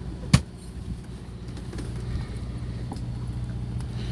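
A fishing boat's engine running with a steady low hum, and one sharp knock about a third of a second in.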